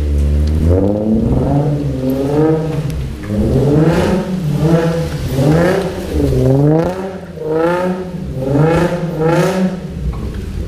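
Infiniti G35's 3.5-litre V6 being revved repeatedly, its pitch climbing and falling about six times in quick blips.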